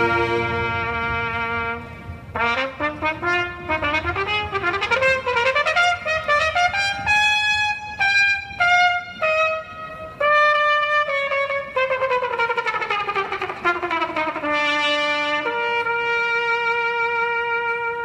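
Solo trumpet playing: a held note, then a quick run of short notes climbing into the high register, a falling run after the middle, and a long held note near the end.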